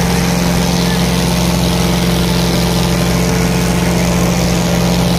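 Tractor diesel engine running steadily at an unchanging pitch, loud and close.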